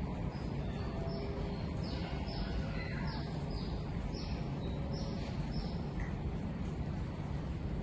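A bird calling, a run of about ten short falling chirps at roughly two a second that stops a little past halfway, over a steady low background rumble.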